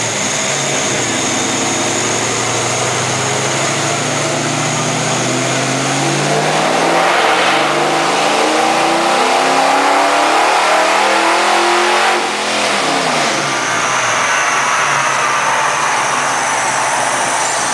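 540-cubic-inch big-block Chevy V8 in a 1970 Camaro making a pull on a chassis dyno: the engine note climbs steadily in pitch and grows louder. About twelve seconds in the throttle closes and the revs fall away as the engine and rollers coast down.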